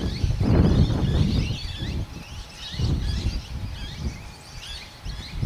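Small birds chirping repeatedly in short calls, with gusts of wind rumbling on the microphone.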